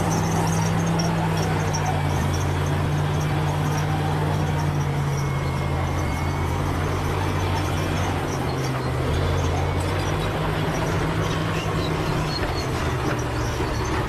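Bulldozer's diesel engine running steadily, its note shifting slightly in pitch midway.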